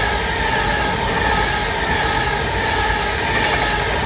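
Class 390 Pendolino electric train running past on the line: a loud, steady rush of wheels on rail with a steady whine over it.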